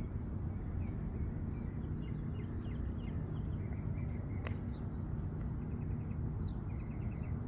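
Small birds chirping over a steady low outdoor rumble, with a quick run of repeated chirps near the end. A single sharp click about four and a half seconds in.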